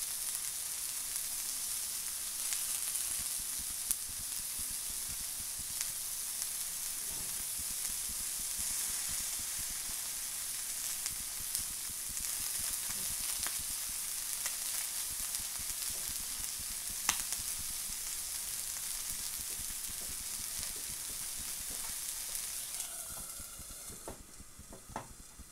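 A beef burger patty and sliced onion sizzling in a non-stick frying pan: a steady hiss with scattered pops. Near the end a lid is set on the pan with a couple of light knocks, and the sizzle drops to a muffled hiss.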